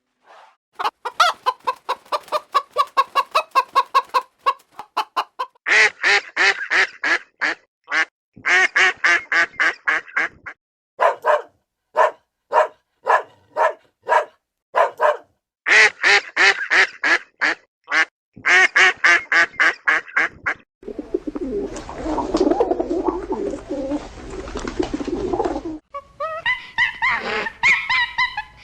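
Domestic fowl calling: runs of short, sharp calls, several a second, in bursts with short gaps. About three quarters of the way through comes a few seconds of denser, rougher overlapping sound, then the calls resume.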